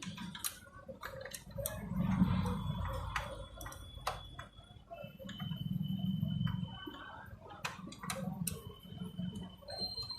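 Irregular clicks and knocks of hand tools and machine parts being handled while a Canon copier is taken apart to get at its heat fixing unit.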